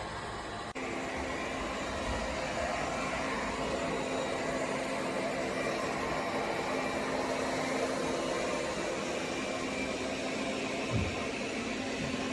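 Airzeen R7 robot vacuum running: a steady motor and suction hum with an even whirring noise over it, breaking off briefly under a second in and then carrying on.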